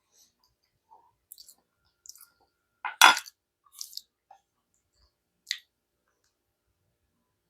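Mouth sounds of someone eating a spoonful of peanut butter: scattered wet smacks and clicks, with one sharp, louder sound about three seconds in.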